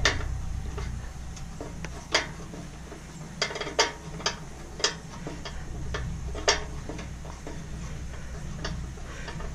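Small metal fittings and parts clinking and tapping as they are handled: a dozen or so sharp clicks at irregular intervals, over a low steady hum.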